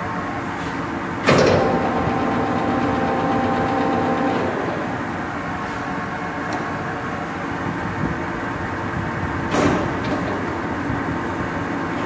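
Blanchard No. 18 rotary surface grinder running steadily with its spindle and rotary table turning. The table's speed gears are shifted with a sharp clunk about a second in and another near the end. A steady gear whine sounds for a few seconds after the first shift.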